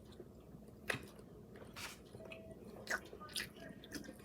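Faint mouth sounds of chewing and biting seafood, with a few short wet smacks and clicks about a second apart.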